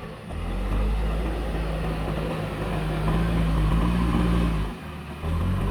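Heavy diesel engine of earth-moving machinery running under load, its pitch rising a little in the middle; the sound drops away briefly about five seconds in and then returns.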